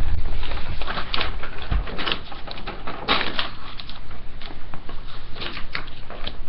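A pet rabbit nibbling and chewing a piece of paper: quick, irregular crinkling and crunching clicks.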